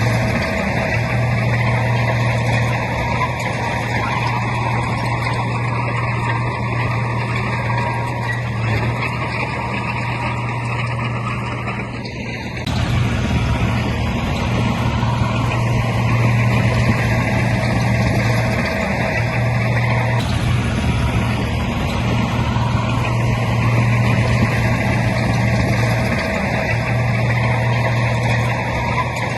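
Heavy diesel earthmoving machinery running steadily with a deep engine drone. The sound dips briefly about twelve seconds in, then comes back a little louder.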